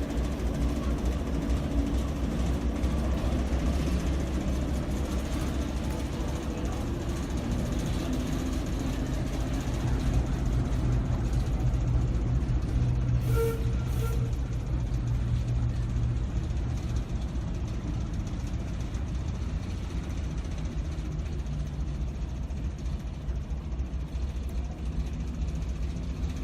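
Railway locomotive engine running steadily, the drone growing louder for several seconds in the middle, with two short high tones about halfway through.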